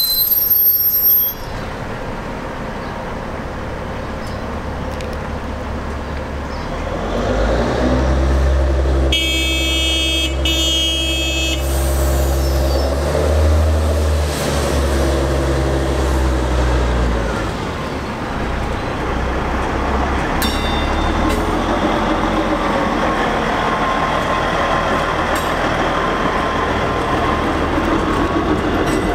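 Self-propelled track geometry car approaching with its diesel engine growing loud and sounding two horn blasts about nine to twelve seconds in. It then rolls past with steady wheel-on-rail noise and a few clicks. A high wheel squeal cuts off about a second in.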